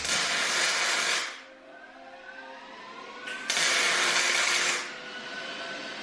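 A power tool working steel: two loud bursts of harsh hissing noise, each a little over a second long and about three seconds apart, each starting and stopping abruptly, with a faint whine rising in pitch between them.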